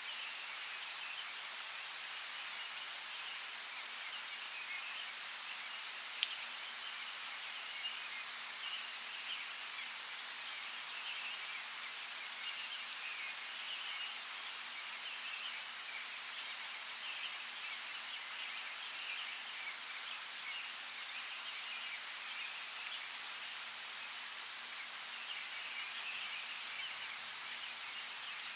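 Steady rain falling, with a few louder drops striking close by, about three sharp clicks spread through it. Faint bird chirping flickers along under the rain.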